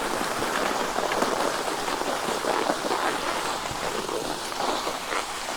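Skis sliding over packed snow as the skier is towed uphill on a T-bar lift: a steady hiss with many small crackles and crunches.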